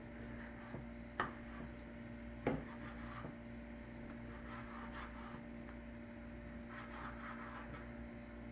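Two sharp knocks of a knife on a cutting board, about a second in and again just over a second later, while chicken thighs are being cut. Softer rubbing and handling sounds follow, over a steady electrical hum.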